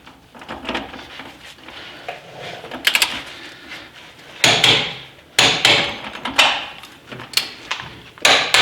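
Hand tools being handled: irregular clanks, knocks and rattles as they are picked up and set down, the loudest clatters past the middle.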